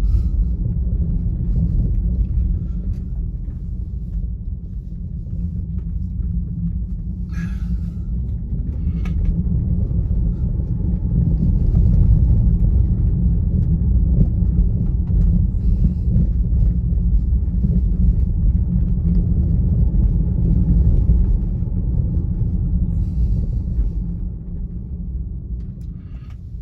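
Road and tyre rumble of a Tesla Model Y, an electric car, driving along, with no engine note; it swells through the middle and dies down near the end.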